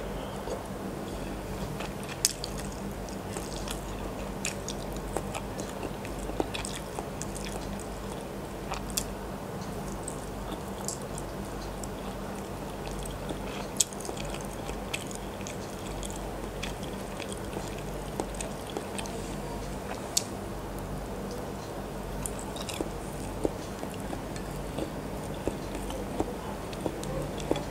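Close-miked biting and chewing of a boiled incubated chicken egg: soft wet mouth sounds with scattered sharp lip and tongue clicks, over a steady low hum.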